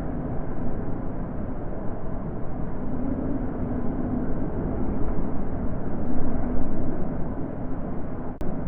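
Natural wind blowing: a steady, deep rush with no single gust standing out, swelling a little midway.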